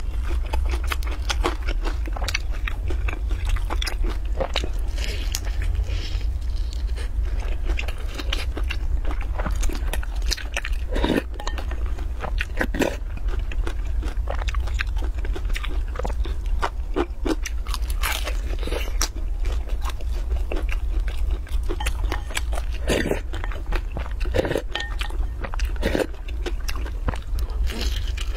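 Close-miked chewing and crunchy bites of a fried pastry with a green filling: irregular crisp crackles and mouth sounds picked up by a clip-on microphone, over a steady low hum.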